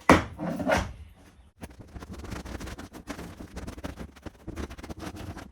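Hand demolition of a caravan's interior: a few heavy knocks in the first second, then about four seconds of rapid crackling and scraping that stops abruptly.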